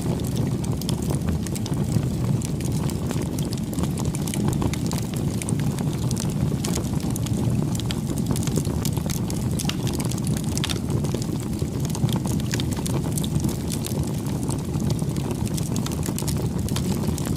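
Wood fire burning: a steady low rush of flames with frequent sharp crackles and pops from the burning wood.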